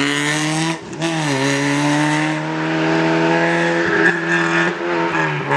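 Rally car engine running hard at high revs, holding a steady note. About a second in it dips briefly and picks up again, as at a gear change or a lift off the throttle.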